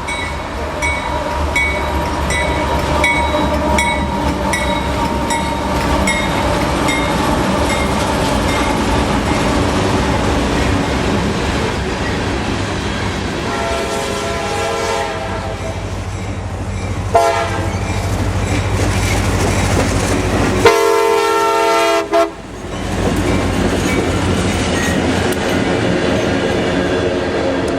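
Railway locomotive and train passing with a steady rumble of engine and wheels on the rails, while a regular ringing ding about twice a second dies away over the first third. The train's air horn sounds several times, first a longer blast just past halfway, then a short toot, then the loudest, longest blast about three quarters through.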